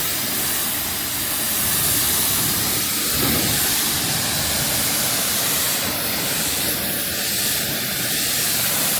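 Water spraying in a steady hiss while a car is washed.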